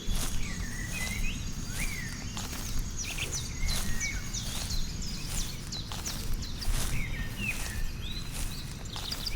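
Outdoor nature ambience: many short bird chirps scattered over a steady low rumble, with some soft patter.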